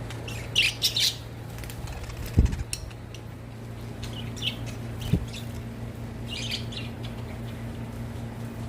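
Pet budgerigars chirping in short scattered bursts, with two low thumps about two and a half and five seconds in, over a steady low hum.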